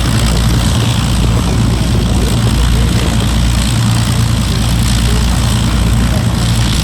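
Avro Lancaster's four Rolls-Royce Merlin V12 engines running as the bomber taxis, a loud, even drone with propeller noise.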